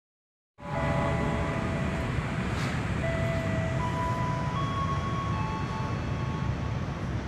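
Train approaching a station platform: a steady low rumble with several thin high whines that hold and then shift to new pitches. It starts abruptly about half a second in.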